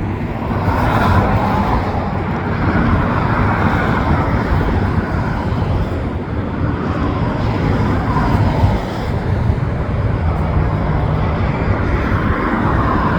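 Busy motorway traffic, with cars passing one after another every few seconds over a steady low rumble.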